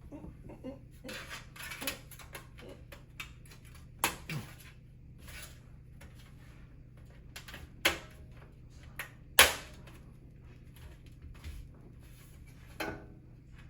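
Thin metal I/O shield being handled and pressed into a PC case's rear opening: rustling, then a few sharp metallic clicks and knocks, the loudest about nine seconds in.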